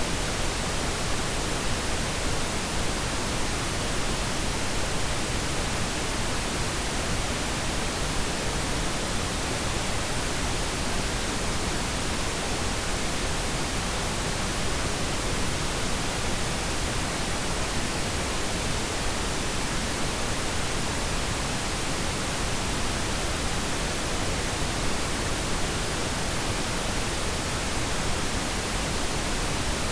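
Steady pink noise: an even, unchanging hiss that spreads across all pitches.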